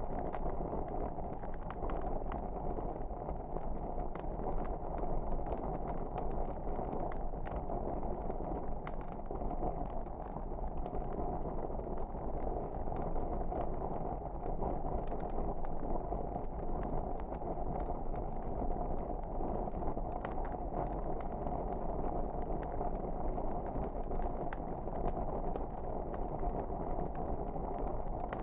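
Wood fire crackling in a fireplace: a steady low rumble of flames with frequent small pops and crackles throughout.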